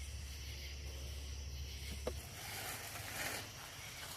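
Packaging being handled during unboxing: a sharp click about two seconds in, then a rustle of cardboard or plastic wrapping for about a second. A low steady hum underneath stops shortly after the click.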